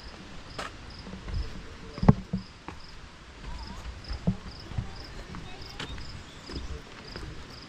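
Cricket chirping in a steady, even rhythm, about three high chirps a second, with scattered low knocks, the sharpest about two seconds in.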